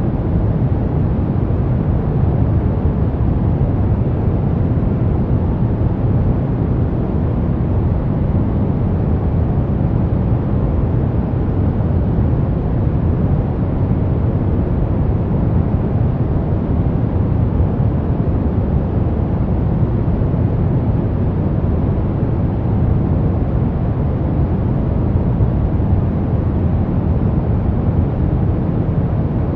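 Brown noise: a steady, even, deep hiss, strongest in the low end and fading away toward the highs, with no change in level.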